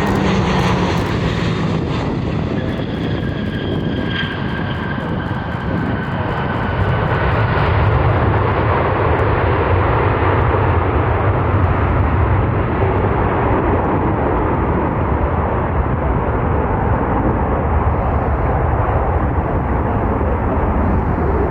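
Jet airliner engines passing close: a loud, steady rush of engine noise. A high whine glides slowly down in pitch over the first several seconds, and the low rumble grows stronger about eight seconds in.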